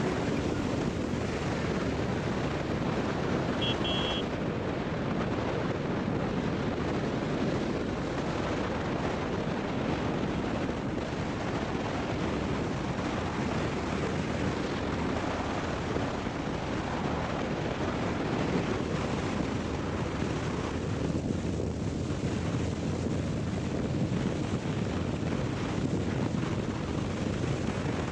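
Steady wind rush on the microphone with motorcycle engine and road noise, as from a camera on a moving motorcycle. A brief high beep about four seconds in.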